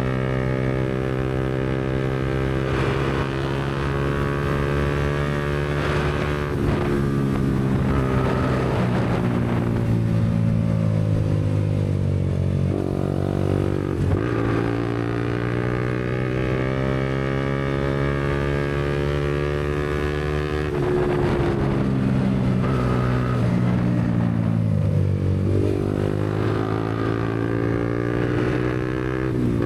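Yamaha MT-125 single-cylinder four-stroke engine through a Black Widow aftermarket exhaust, running while riding. The engine pitch climbs under throttle and drops several times, with one longer fall as the bike slows.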